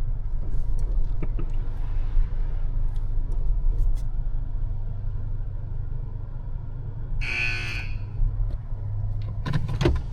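A truck's engine idling, a steady low rumble heard from inside the cab, with a brief hiss-like burst about seven seconds in and a few light clicks near the end.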